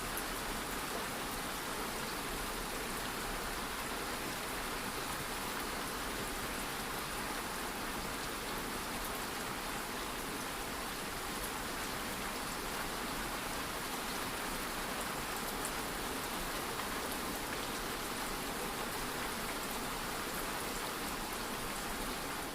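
Steady light rain falling, an even hiss with faint scattered drop ticks. It fades out right at the very end.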